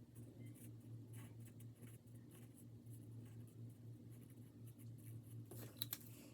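Faint scratching of a marker colouring in on paper, over a low steady hum, with a couple of sharper clicks near the end.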